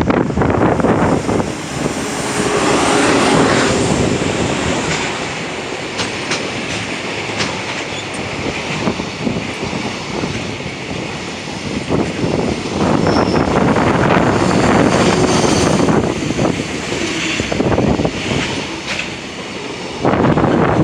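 Freight train hauled by a JR Freight EF210 electric locomotive rolling past, its wagons' wheels clacking over rail joints.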